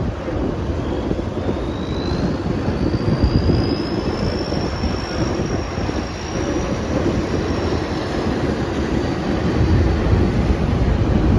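A ferry under way: a steady, loud rumble and rush of engine and water, with wind buffeting the microphone. A faint high whine slowly rises in pitch over several seconds, then fades.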